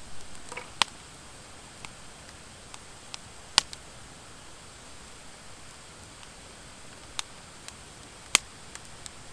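Wood fire crackling: irregular sharp pops and snaps from burning dry hardwood and driftwood over a soft steady hiss. The two loudest snaps come a little after three and a half seconds and near the end.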